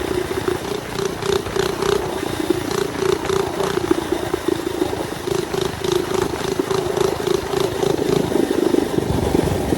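Mini bike's small engine running steadily under throttle while riding, a constant drone with a slight pulsing beat.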